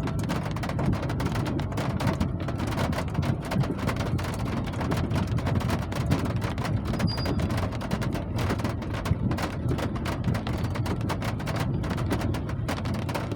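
Steady rain: a dense, continuous crackle of many drops striking.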